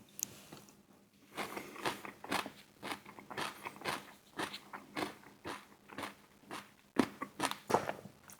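Close-up eating sounds: a person biting and chewing crunchy food in a steady run of short crunches, about two a second. The loudest crunches come about seven seconds in.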